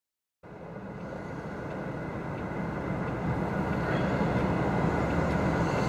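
MAN TGX articulated lorry heard from inside the cab: a steady diesel engine and road rumble that starts after a brief silence and grows louder over the next few seconds as the truck drives on.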